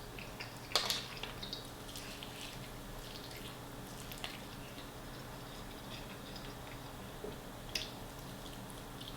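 Quiet mouth sounds of someone eating a hot chicken wing: soft, wet chewing clicks and smacks, with a louder click about a second in and another near the end.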